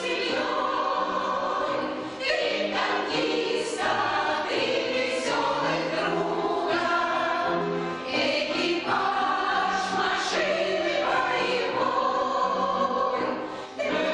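A choir of older amateur singers singing a song in sustained phrases, with short breaks between phrases about two seconds in, about eight seconds in, and near the end.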